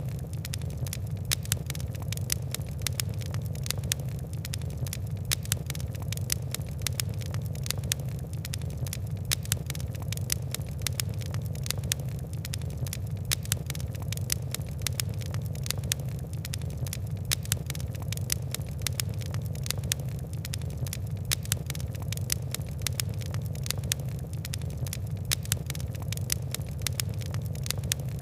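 Fire crackling: a dense, irregular stream of sharp ticks and pops over a steady low rumble.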